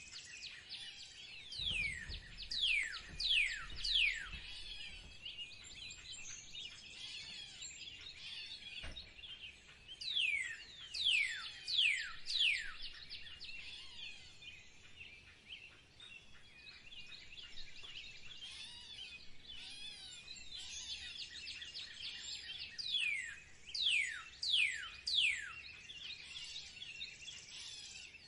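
Wild birds singing. Three times, a run of three or four loud, clear whistled notes, each sliding steeply down in pitch, stands out over a continuous background of many smaller chirps from other birds.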